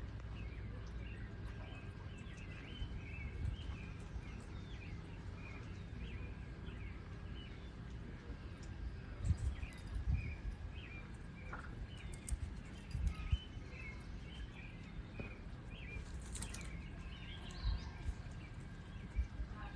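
Small birds chirping and twittering again and again over a low outdoor rumble, with a few short thumps and a faint steady high tone.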